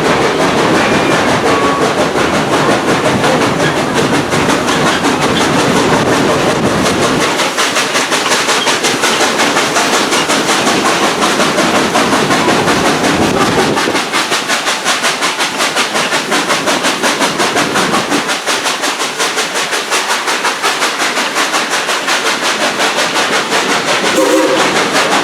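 Passenger train riding along the track behind a steam locomotive: the cars rolling and rattling, with a fast, even rhythm running through the noise from about a third of the way in.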